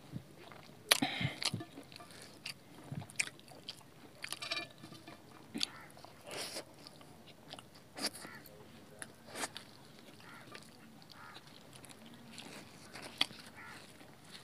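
Close-up chewing and wet lip-smacking of people eating Maggi noodles and flatbread by hand, with irregular sharp smacks and clicks, the loudest about a second in.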